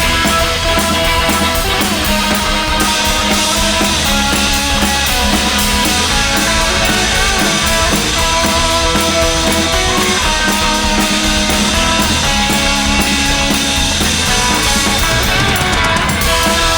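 Live rock band playing an instrumental passage with electric guitar, bass and drums, without vocals.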